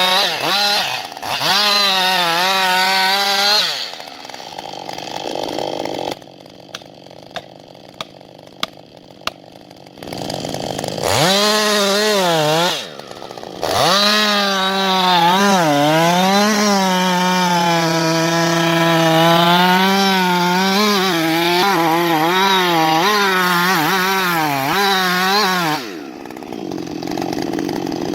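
Chainsaw engine cutting wood, its pitch wavering up and down as the chain bites and eases. It stops twice, once for several seconds with a few sharp clicks in the lull, then runs on again and drops away near the end.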